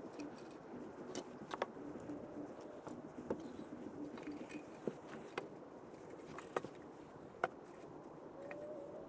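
Hand tools clicking and tapping now and then during work on a car, over faint steady background noise.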